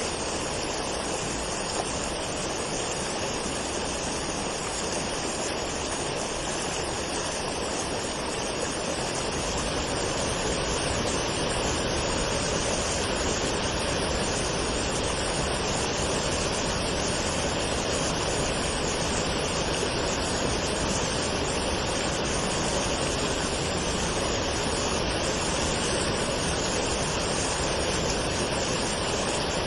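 Waterfall rushing steadily, with a deeper rumble coming in about nine seconds in.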